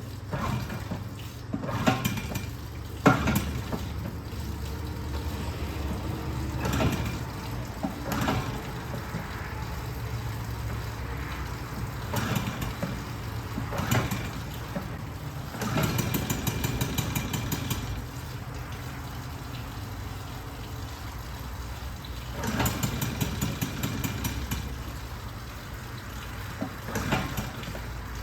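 A 5.5 hp two-stroke outboard motor in a water bucket being pull-started again and again; about halfway through it catches and runs for a couple of seconds, dies, then catches briefly once more. It runs only in short spurts, an outboard the owner says runs but needs carburettor work.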